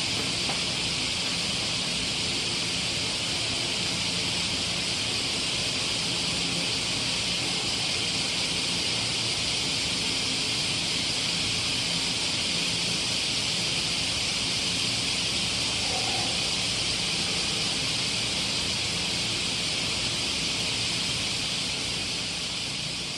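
A steady, even high-pitched hiss with a faint low hum beneath it.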